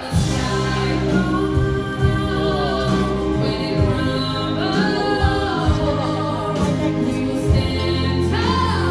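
Live stage music: several voices singing together in harmony over instrumental accompaniment with held bass notes.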